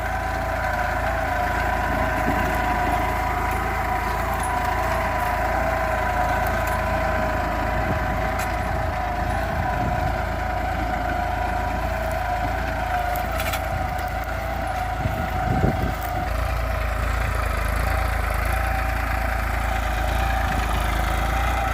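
New Holland 3230 tractor's 45 hp diesel engine running steadily under load while pulling a two-bottom mouldboard plough, a constant drone with a steady whine over it.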